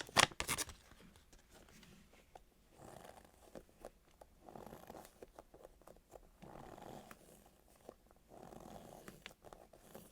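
A soft foam squishy toy squeezed slowly near the microphone, about four muffled squishes a couple of seconds apart, after a brief crinkle of plastic packaging at the start.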